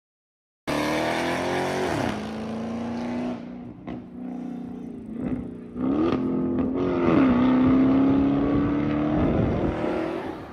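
A car engine running loud and revving up and down: its pitch drops, climbs again, falls sharply, then climbs slowly.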